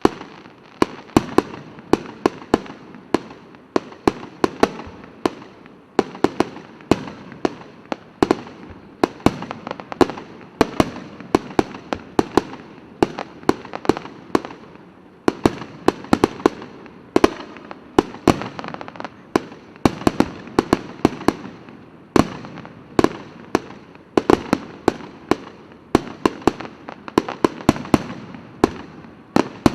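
Fireworks exploding in a rapid, continuous barrage: many sharp bangs each second with crackling between them.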